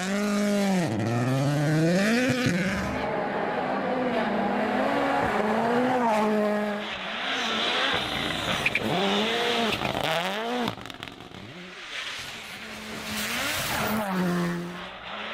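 Rally car engines at full throttle, the revs repeatedly dropping and climbing again through gear changes and lifts.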